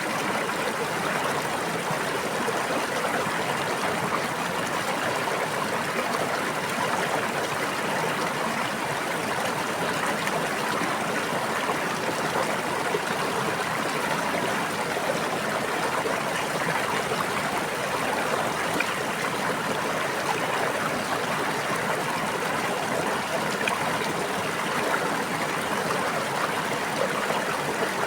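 Water flowing steadily in a stream, a continuous even rush with no breaks or separate drips.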